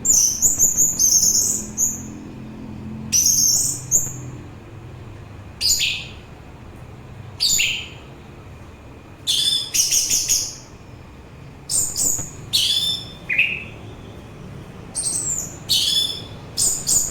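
Orange-headed thrush singing: short, high, warbling whistled phrases, each under about a second, coming every one to two seconds with brief pauses between them.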